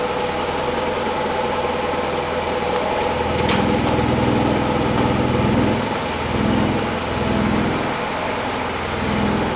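Willys CJ3A's 134 cubic inch four-cylinder L-head flathead engine idling steadily while still cold, running without missing. From about a third of the way in, a deeper pulsing swells and fades about once a second over the steady hum, with a single click where it starts.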